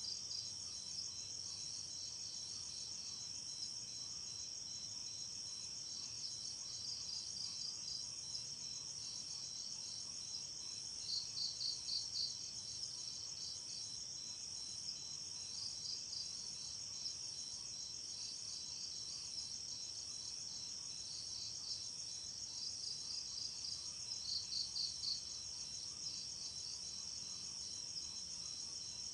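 Night insects, crickets among them, chirping in a steady high-pitched chorus, with rhythmic pulsing chirps that swell louder twice: about a third of the way in and again near the end.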